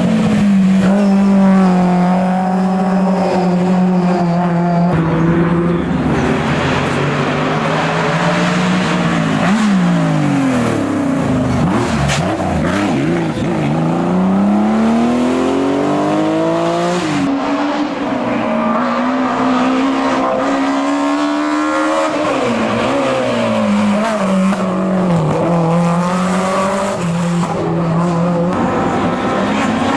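Historic rally car engine running hard on a special stage. The revs are held high and steady, then drop and climb back sharply several times as the driver lifts, brakes and changes gear.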